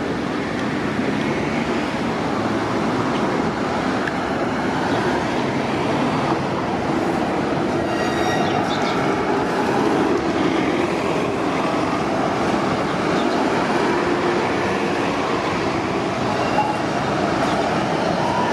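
Steady rumble of a large transit vehicle running close by, with brief faint high squeals about eight to nine seconds in.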